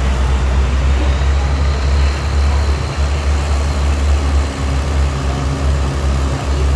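Antique tractor engine running steadily with a deep, loud hum, heard over the general noise of an outdoor crowd.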